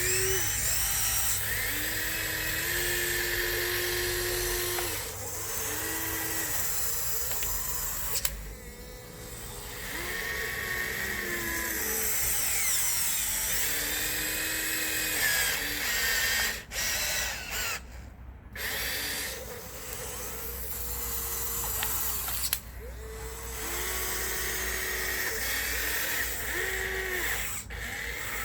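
Electric drive motors of a Huina 1554 radio-controlled bulldozer whining in short runs, the pitch stepping up and down as the motors start, change speed and stop, with a few brief pauses.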